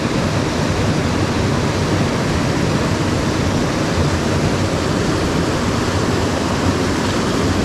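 Steady rush of a mountain stream's tumbling water, an even, unbroken noise.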